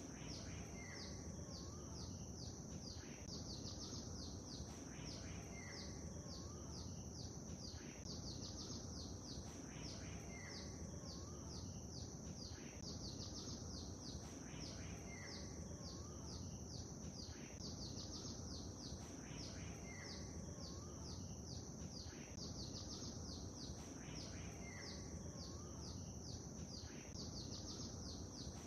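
Birds chirping rapidly and high-pitched, with an occasional lower call, in a pattern that repeats about every four seconds, over a steady low background rumble.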